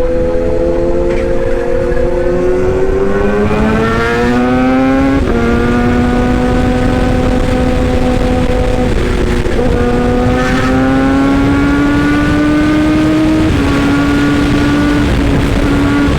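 Excavator engine running steadily, its pitch rising over a couple of seconds a few seconds in, then holding with small shifts up and down as the load changes.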